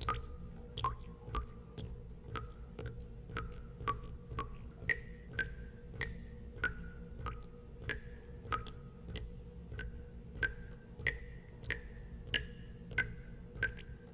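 Water drops falling one by one into water, a little under two a second, each a sharp plink with a short ringing tone whose pitch shifts from drop to drop, over a low steady hum.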